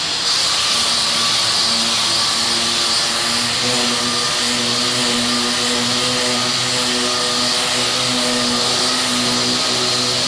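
Power sander running steadily on body filler, a continuous hiss with a steady hum under it that comes in about half a second in.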